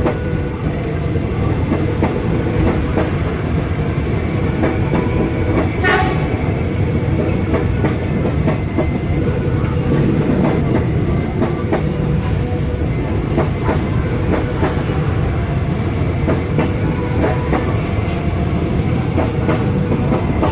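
Electric commuter train rolling past close by: a steady rumble of wheels on rails, with irregular clicks as the wheels cross rail joints. One louder, sharper click comes about six seconds in.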